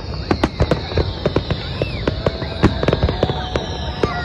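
Fireworks display: aerial shells bursting and crackling in a rapid, uneven string of bangs and pops, several a second, with a high tone sliding slowly down in pitch.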